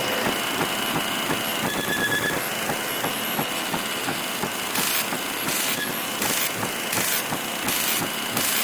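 Television with poor reception giving out static: a steady harsh hiss and crackle with a faint high whine. From about halfway, bursts of hiss cut in and out at a rough rhythm, about twice a second.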